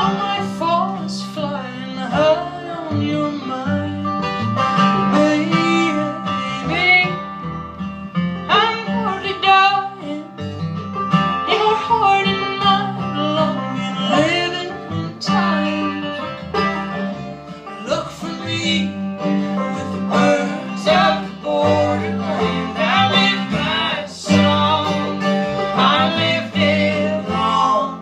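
Live acoustic Americana string band playing: guitar and banjo picking over a steady bass line, with a voice singing.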